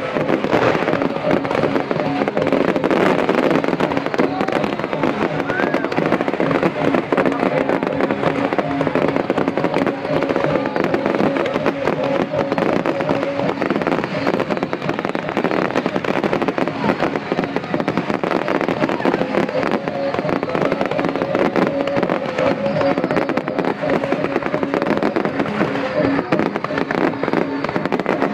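Aerial fireworks barrage: dense, continuous bangs and crackling from shells launching and bursting overhead.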